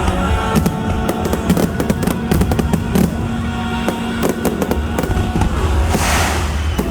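Fireworks exploding and crackling in rapid succession over show music, with a hissing rush near the end.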